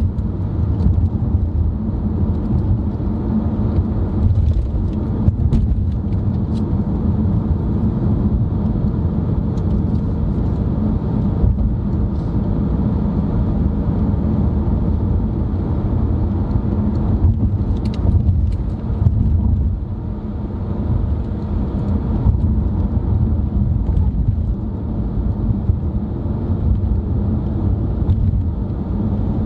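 A car driving at a steady speed, heard from inside the cabin: a continuous low rumble of engine and tyre road noise, with a few faint clicks and knocks now and then.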